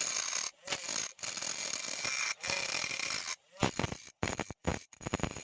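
Homemade 12-volt DC angle grinder running, a steady high whine over grinding or scraping noise for about three seconds. After a short break it sounds in short bursts, several a second, switched on and off.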